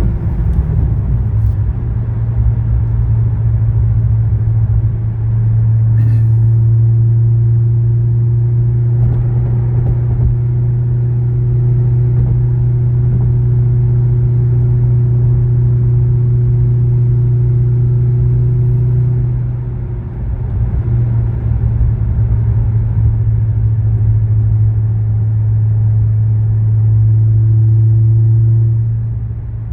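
The supercharged V8 of a 2010 Corvette ZR1 cruising at low revs under light throttle, giving a steady low drone. Its pitch drops about a second in and dips briefly around twenty seconds in.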